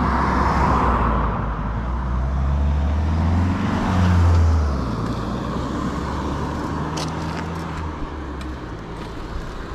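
Road traffic: a motor vehicle's engine hums as it goes by, loudest about four seconds in, then fades away.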